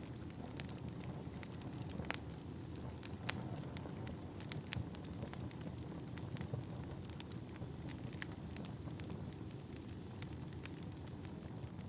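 Wood fire burning in a fireplace: a steady low rumble of flame with many sharp, irregular crackles and pops from the burning logs. A faint high whistle, sliding slightly down in pitch, runs through the second half.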